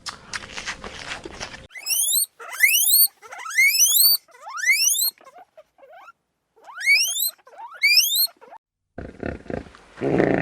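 An animal squealing: about six short squeals, each rising steeply in pitch, after a second or so of rustling.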